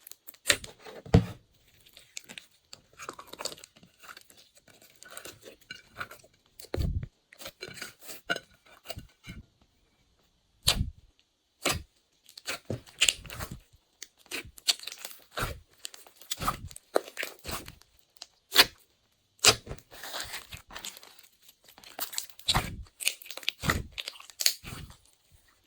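Glossy slime being squished and stretched by hand, giving irregular sticky pops and clicks with short pauses between.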